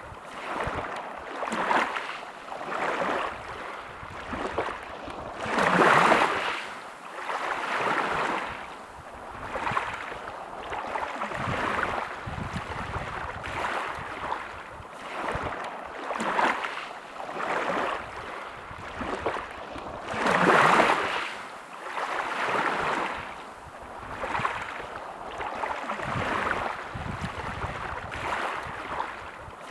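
Sea waves washing onto a shore, a rush of water swelling and falling away every second or two, with two bigger waves about six seconds in and again about twenty seconds in.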